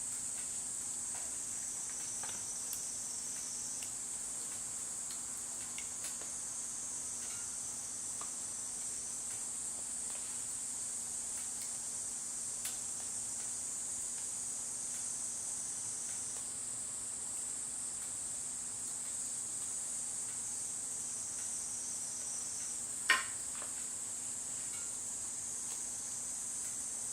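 Insects chirring in a steady, continuous high trill, over a faint low hum and a few faint ticks. One sharp clink near the end stands out as the loudest sound.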